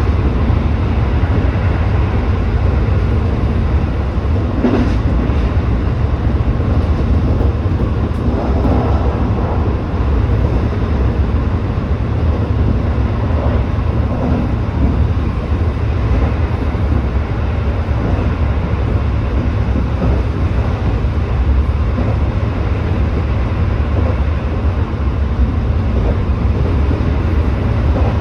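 Tobu 8000-series electric train running at speed: a steady low rumble of wheels and running gear on the track, with a short clunk about five seconds in.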